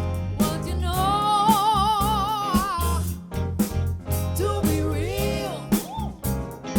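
Live soul band playing, with bass, drums and guitar under a melody. About a second in, a note is held in two-part harmony with vibrato for about two seconds. A shorter phrase follows near the end.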